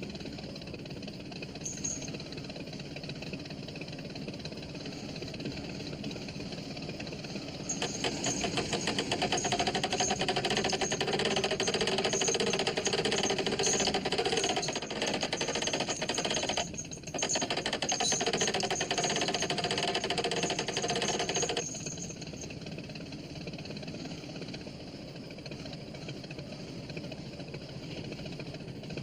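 An engine running steadily. It gets louder and rougher for about fourteen seconds in the middle, with a short dip partway through, then settles back.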